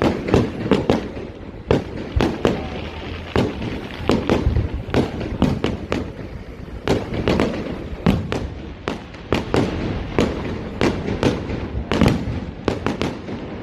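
Fireworks display: a fast, irregular barrage of bangs going off several times a second, over a continuous low rumble.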